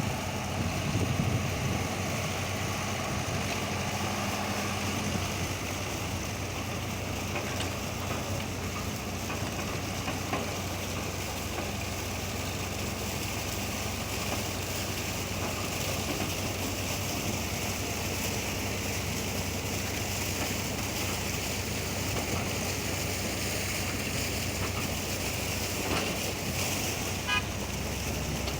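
Old Bedford truck engine running steadily, with a brief high tone near the end.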